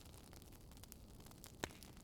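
Wood campfire crackling: a few scattered sharp pops over a faint hiss, the loudest one near the end.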